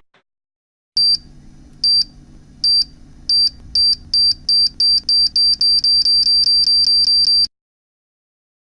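High electronic beep sound effect, at first about one beep a second, speeding up until the beeps run almost together, then stopping abruptly: the accelerating countdown of a time bomb about to go off. A faint low hum runs under the beeps.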